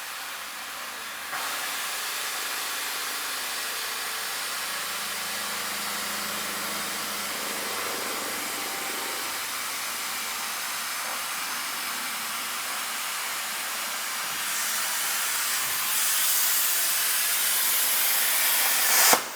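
CNC plasma cutter torch cutting steel plate: a steady hiss of the plasma arc and air that grows louder in the last few seconds and cuts off suddenly near the end as the torch shuts off.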